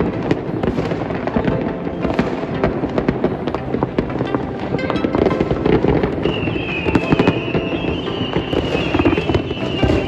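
Many fireworks going off at once across a town, a continuous dense mass of bangs and crackling pops with no pause. About six seconds in, a wavering high whistle-like tone joins and carries on over the bangs.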